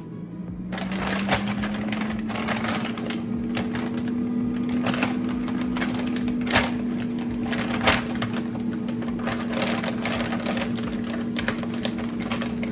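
Air fryer starting up: its fan motor spins up, the hum rising in pitch over the first couple of seconds, then runs steadily with a rushing of hot air and scattered small ticks and crackles.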